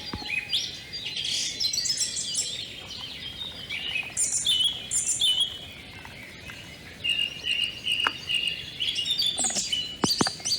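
Several small songbirds chirping and singing, with overlapping quick chirps, trills and a steadier held whistle. A few sharp clicks come near the end.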